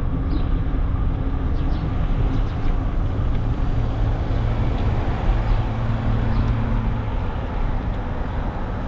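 Steady low rumble of wind and road noise while riding a bicycle along city streets, with a motor vehicle's low engine hum coming in and fading again in the middle.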